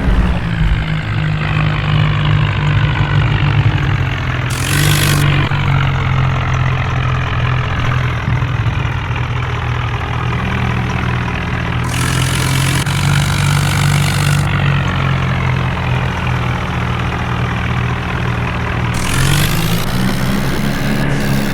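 An engine running steadily, its pitch shifting slowly and dipping then rising near the end, with a hiss cutting in three times.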